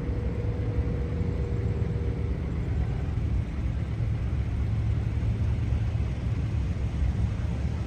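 Steady low mechanical rumble, like a motor running, with a faint steady hum that fades out in the first few seconds.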